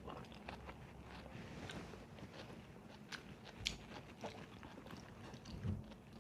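A person chewing and biting food close to the microphone: soft wet chewing with small crunches and clicks, and one sharper click a little past halfway.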